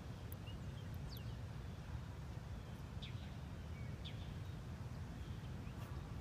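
Wild birds giving a few short, high, falling chirps, scattered over a few seconds, above a steady low outdoor rumble.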